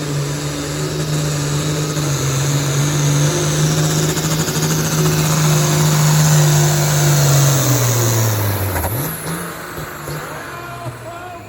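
Modified farm pulling tractor's engine running flat out as it hauls the sled down the track, with a high whine over the steady drone. About eight seconds in, the whine stops and the revs fall away as the pull ends.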